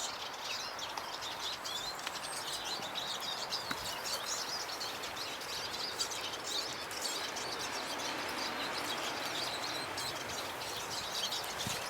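Small garden songbirds twittering and chirping continuously at the feeders, many quick high calls overlapping, over a steady background hiss.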